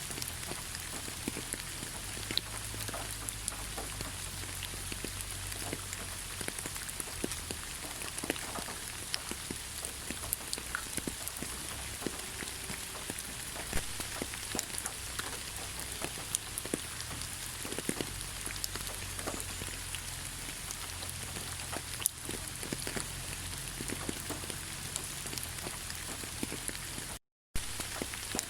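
Steady rain in a forest: an even hiss with many separate drops tapping all through. The sound cuts out completely for a split second near the end.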